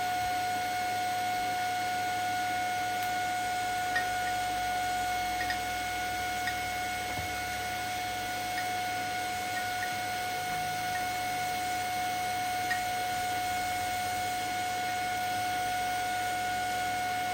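TIG welding arc running steadily during a root pass on pipe: a constant high whine with a light hiss, and a few faint ticks scattered through it.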